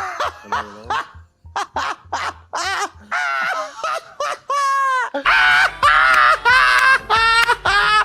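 A woman imitating bird calls with her voice: a series of short, swooping squawks and chirps, one longer drawn-out call a little past the middle, then quicker calls over a low steady hum.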